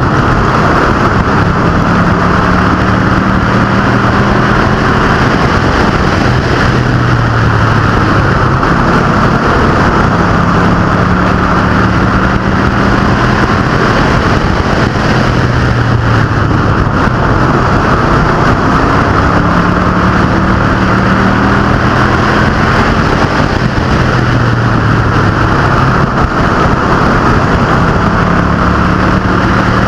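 Street stock cars and pro trucks racing on an oval: a loud, continuous engine din, with engine pitch rising again every few seconds as the cars accelerate.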